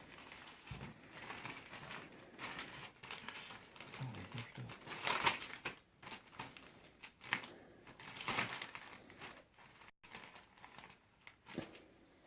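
Plastic packaging bag crinkling and rustling in the hands as a package is opened, in irregular bursts that are loudest about five and eight seconds in.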